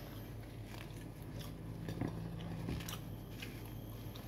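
A person chewing food with faint mouth clicks and smacks, over the steady low hum of an electric fan.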